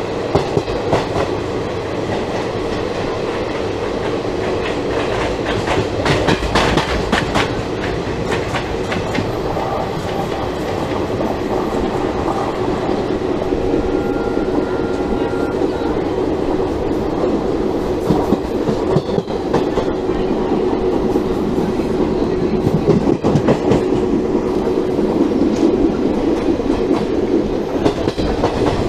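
Passenger coach of an Indian Railways express train running at speed, heard from on board. A steady rumble runs throughout, and groups of wheel clacks over rail joints come every few seconds.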